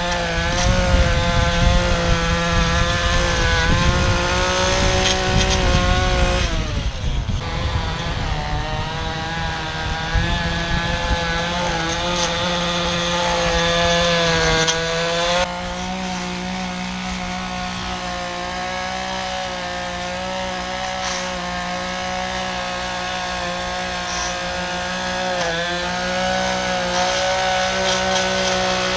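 Small petrol engine of lawn equipment running at high speed under load while cutting tall grass. Its pitch dips and recovers about seven seconds in, and the sound changes abruptly about halfway through.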